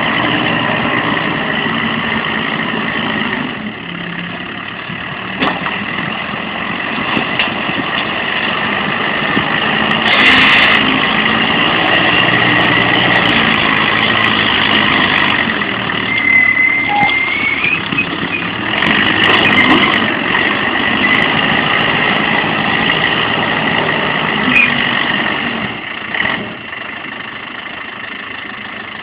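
A heavy vehicle engine running steadily, with occasional knocks, dropping in level near the end.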